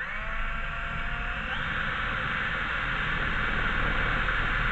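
Electric drill running, its motor whine rising over the first second or so and then holding steady as it drills a hole.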